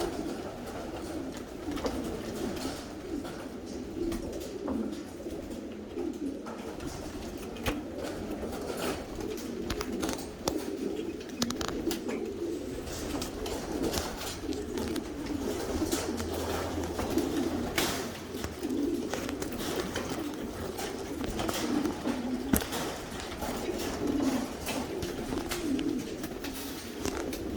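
Many racing pigeons cooing together in an enclosed loft, a continuous overlapping chorus of low coos, with scattered sharp taps throughout.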